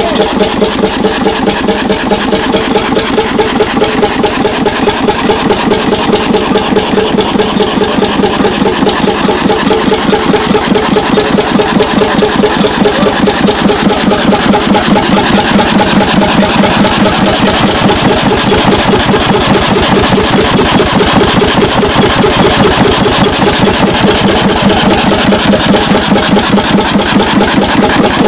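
Levahn two-stroke diesel engine, a 10-litre, 28 hp former boat engine, running steadily with an even beat of firing strokes.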